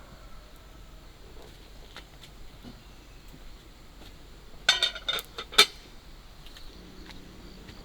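A quick cluster of clinks and clatters from kitchenware being handled, several sharp ringing knocks a little past halfway through, over low background.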